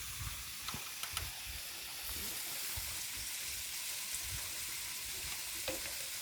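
Food sizzling in a cooking pan, a steady hiss that grows brighter about two seconds in, with a few light clicks.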